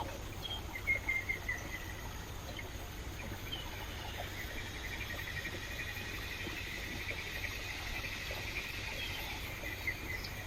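Steady flow of a stream under the calls of small forest animals: a few short chirps in the first second or two, then a long, fast, pulsing trill that starts about three and a half seconds in and runs on.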